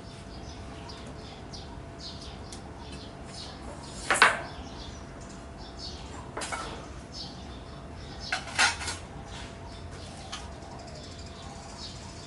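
A few sharp clinks, like small hard objects knocking together: the loudest about four seconds in, a softer one midway, and a quick double clink a little later. Short high chirps, like small birds, keep on in the background.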